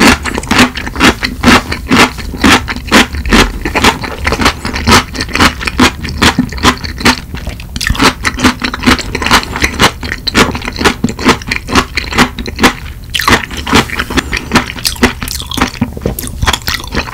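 Close-miked crunching as a man chews crisp ponytail radish kimchi (chonggak kimchi): a steady run of sharp, wet crunches several times a second.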